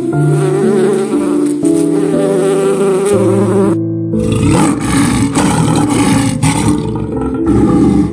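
A honeybee buzzing over soft instrumental music. About four seconds in, the buzzing gives way to a lion's low, pulsing growls, with the music continuing.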